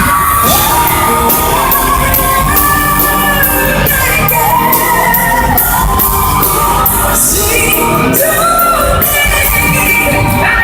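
Live pop ballad in concert: a female singer holds long, gliding notes without clear words over the band, with the crowd shouting and cheering underneath.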